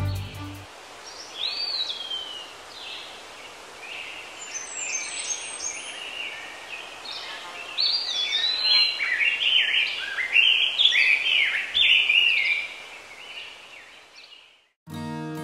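Birds singing and chirping over a steady outdoor hiss, sparse at first and much busier from about halfway through, then fading out near the end. A violin tails off at the very start, and music starts again just before the close.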